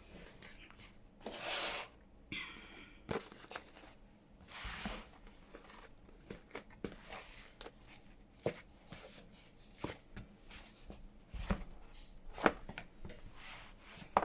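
Paper rustling and swishing as journal pages and inserts are handled and slid into place, with many light taps and clicks of card against the work surface.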